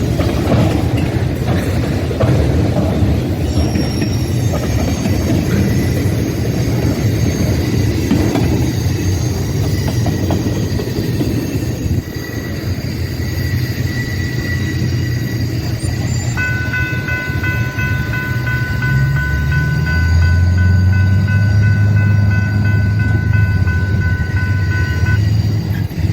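Freight train rolling past on the rails: a continuous rumble of the cars with thin, steady high whines over it. About two-thirds of the way through, a set of brighter steady tones sets in alongside a heavier low rumble, and the tones stop just before the end.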